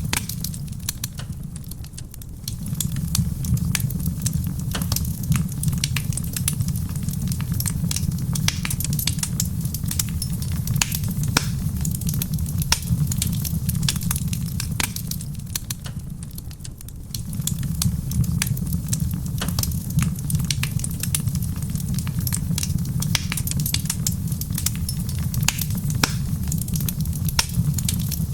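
Wood fire crackling in a stone fireplace, with many sharp pops and snaps over a steady low rumble. The rumble dips briefly twice, about two seconds in and just past halfway.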